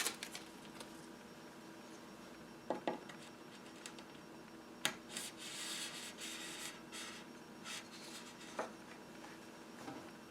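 Small wooden organ parts being handled on a bench: a few light knocks, two close together about three seconds in, and a stretch of rubbing and scraping in the middle.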